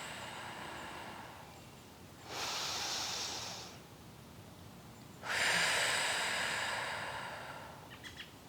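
A woman's deep, audible breathing close to the microphone: a breath out fading away, a short breath in about two seconds in, then a long hissing breath out through pursed lips from about five seconds in that slowly fades.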